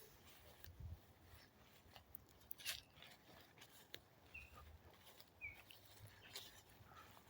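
Near silence, with a few faint, short bird chirps and some scattered soft clicks.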